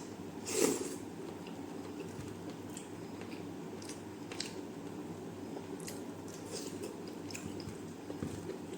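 A person chewing a first mouthful of mushroom gravy with rice, with scattered soft mouth clicks and a louder bite about half a second in.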